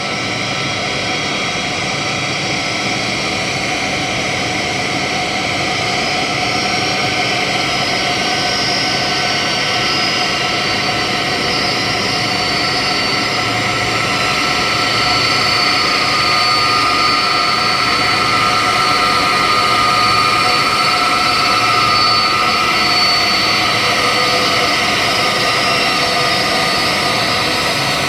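Aircraft engines running steadily, a continuous whine with several held tones over a broad rush, growing a little louder midway.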